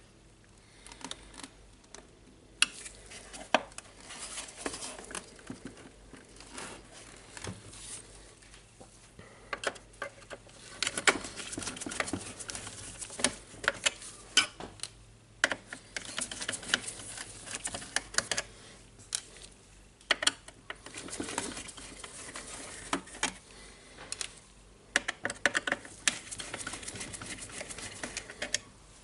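Hands taking apart a work site radio's plastic housing: plastic parts clicking, rattling and scraping, with frequent small sharp clicks and stretches of rustling handling.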